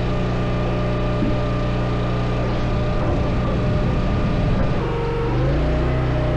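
Engine running steadily, its pitch shifting about five seconds in.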